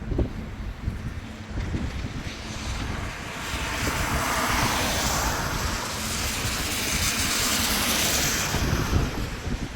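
Storm wind buffeting the microphone with a low rumble. A broad rushing noise swells from about three and a half seconds in and fades again near the end.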